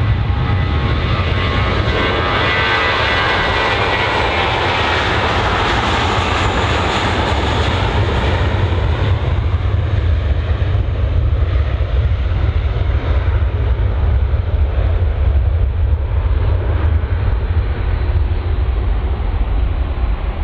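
Jet airliner engines passing close by: a loud, steady rumble with a hiss and faint whine that peak about six seconds in, then the high end dies away as the aircraft moves off.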